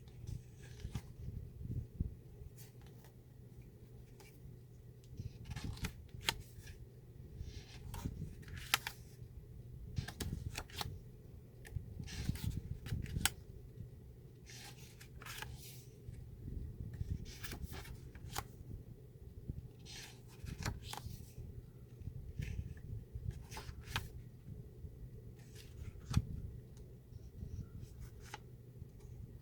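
Paper craft items and their packaging being handled: irregular rustling with light taps, scattered through the whole stretch.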